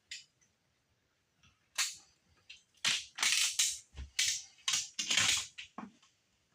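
Box cutter in use: a string of short, sharp clicking and scraping noises, several in quick succession through the middle, as the blade is readied and drawn through the material.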